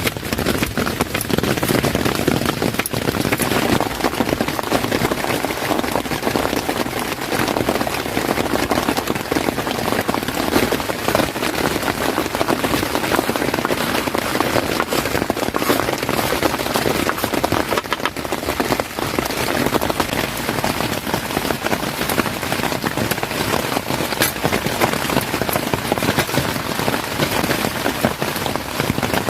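Heavy rain falling steadily, a dense, continuous hiss of many small drop hits.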